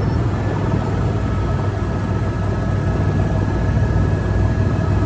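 Helicopter running steadily, heard from inside the cabin: a constant low drone with a thin high whine over it.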